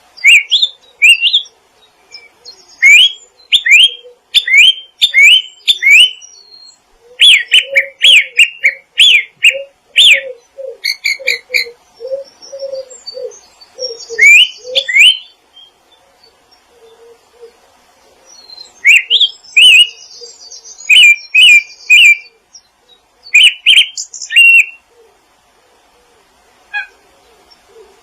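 Small songbirds chirping in quick phrases of short, sharp rising notes, with a few buzzy higher notes mixed in. A lower series of notes runs under the chirps in the first half. The singing pauses briefly twice.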